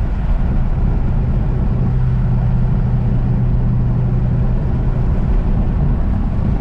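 Pontiac G8 GT's V8 running at a steady cruise, a constant low drone, mixed with wind and road noise through the open windows, heard from inside the cabin.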